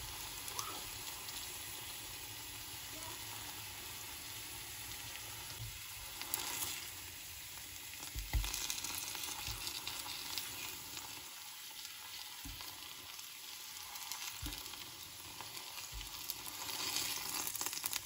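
Bananas frying in hot oil and caramelizing sugar in a non-stick pan: a steady sizzle, with a few soft knocks of a metal fork on the pan as the pieces are turned and lifted out. The sizzle swells near the end.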